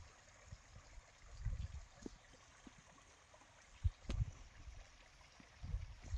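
Faint running water of a stream, with a few low rumbling swells and one sharp click about four seconds in.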